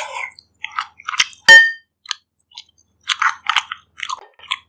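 Close-miked eating sounds: chewing and wet mouth clicks from someone eating bak kut teh pork ribs. About a second and a half in comes a single sharp clink with a brief ringing tone, the loudest sound here, like a utensil striking a bowl.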